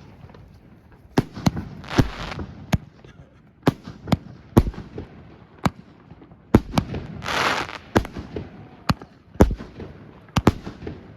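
Fireworks and firecrackers going off: a string of sharp bangs at uneven intervals, some close and loud, others fainter, with a hissing rush about seven seconds in.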